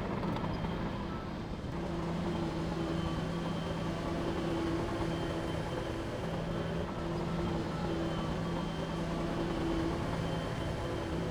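Heavy diesel engine of earthmoving equipment running steadily at a constant speed.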